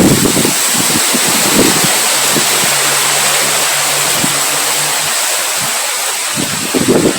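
Strong wind blowing: a loud, steady rushing hiss with irregular low gusts rumbling on the microphone.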